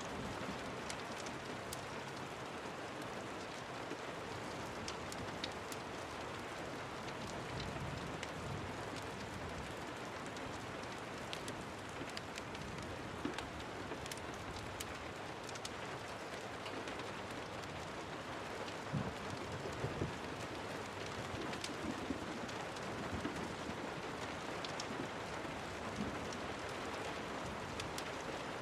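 Steady rain falling, an even hiss with many small scattered clicks and ticks throughout.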